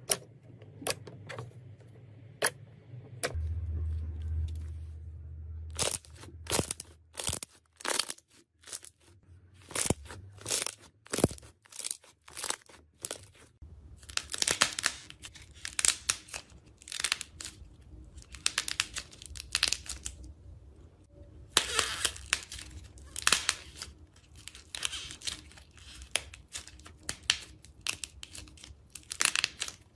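Crisp crackling, tearing and crunching of a crunchy material being squeezed and pulled apart up close, in irregular runs of sharp pops that come thickest about halfway through and again later on.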